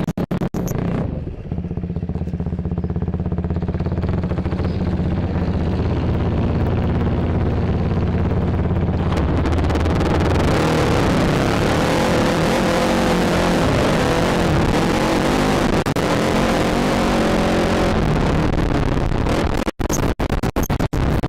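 ATV engine running at steady revs, then louder, with a rushing noise over it, from about nine seconds in.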